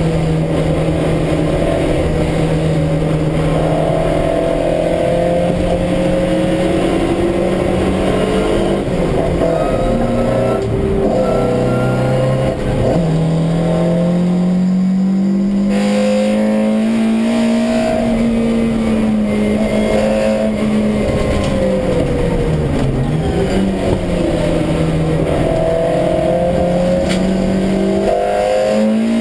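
Honda B18 four-cylinder with individual throttle bodies running hard at high revs on track, heard loud inside the stripped metal cabin of the CRX. The engine note holds high, falls and rises a few times, and climbs again near the end.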